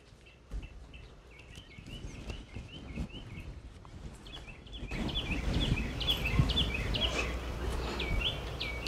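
A bird chirping over and over in short, high calls, a few a second, growing louder about halfway through as a low background rumble rises.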